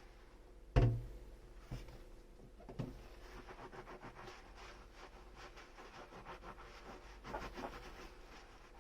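Dishes being handled in a kitchen sink: a sharp knock a little under a second in as a piece is set down, a few lighter knocks, then soft rubbing and small clicks as the dishes are scrubbed.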